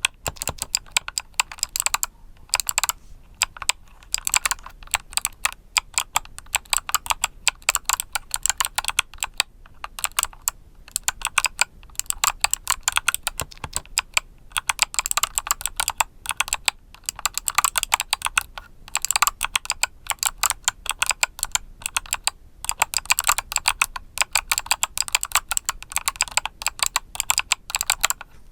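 Mechanical keyboard with Kailh Box summer switches being typed on: fast runs of crisp key clicks, broken every few seconds by brief pauses.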